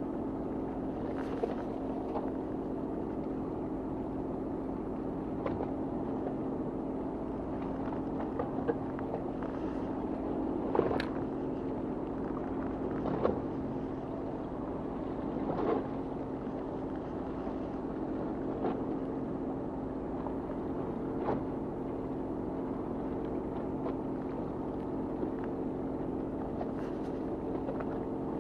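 Fishing boat's engine running steadily, a constant hum, with a few scattered sharp knocks over it.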